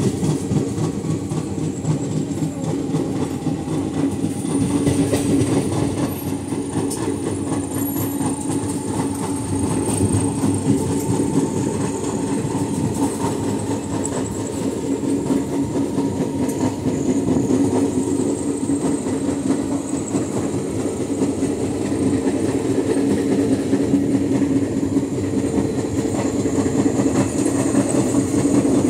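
ICF passenger coach running at high speed, its wheels knocking rapidly and continuously over the track: the pounding of a flat wheel, with rail clatter and a faint high wheel whine over a steady low rumble.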